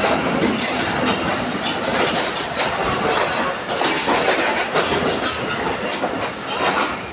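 Moving passenger train: a steady running rumble, with the wheels clattering irregularly over the rails, heard from inside the carriage.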